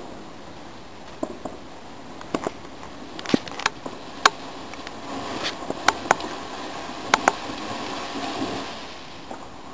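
Fireworks going off: scattered sharp cracks and pops, with a hissing rush building from about five seconds in and fading near the end.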